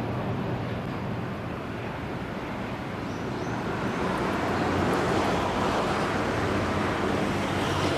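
Steady rumbling vehicle noise that grows louder from about three seconds in.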